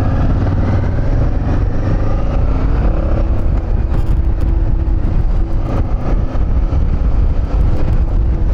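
Motorcycle running steadily at road speed, with a heavy low rumble of wind on the microphone.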